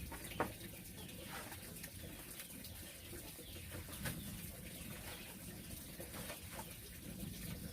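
Faint outdoor ambience with scattered short bird calls and a few light clicks.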